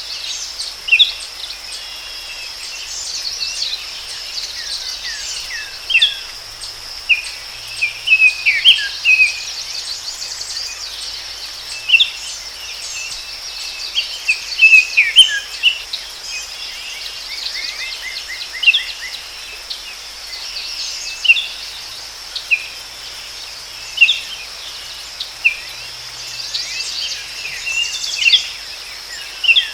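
Forest birds giving many short chirps and calls, with a rapid trill partway through, over a steady high-pitched insect drone.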